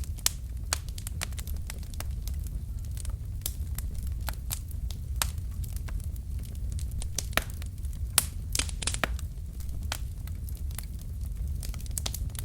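Wood fire burning in a fireplace: irregular sharp crackles and pops from the burning logs over a steady low rumble of the flames, with a few louder pops.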